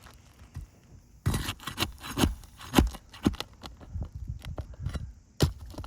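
Asphalt roof shingle being lifted and worked by hand, starting about a second in: irregular crackling, clicking and scraping as the shingle bends and its surface granules break loose, the sound of granular loss.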